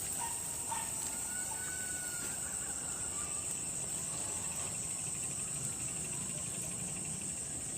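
Insects trilling in a steady, continuous high-pitched drone.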